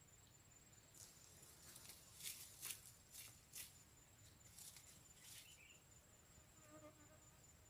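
Quiet outdoor ambience: a thin, steady high insect trill with a scattering of soft rustles and crackles, and a brief faint pitched call near the end.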